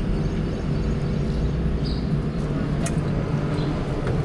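Steady low mechanical hum, as of a motor running, with a few faint ticks.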